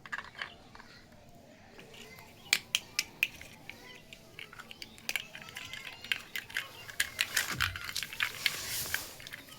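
Small plastic toy kitchen pieces being handled, with irregular sharp clicks and taps as they knock together and are set down, and a rustle of packaging near the end.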